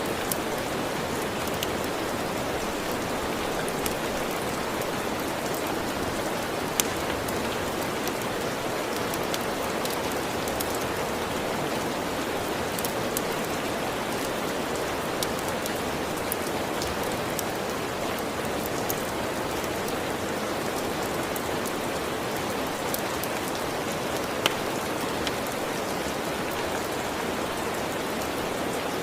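Steady, even rain with a scattering of sharp crackles and pops from a wood fire in a fireplace; the two clearest pops come about 7 and 24 seconds in.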